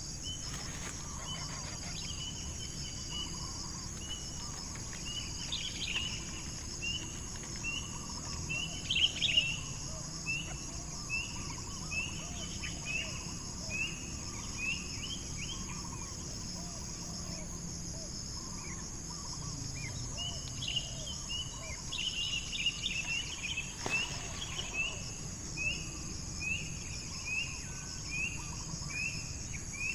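A bird calling in a series of short chirps, about one a second, with louder clusters of calls in between, over a steady high drone of crickets.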